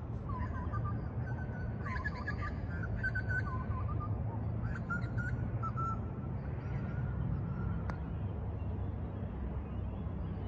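Birds calling repeatedly with short, curving whistled calls for the first seven seconds or so, over a steady low rumble. One sharp click about eight seconds in: a putter striking a golf ball.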